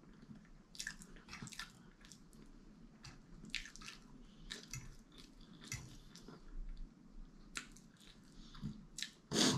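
Quiet, close-miked eating: wet chewing and smacking mouth sounds with many small clicks, and one louder burst near the end.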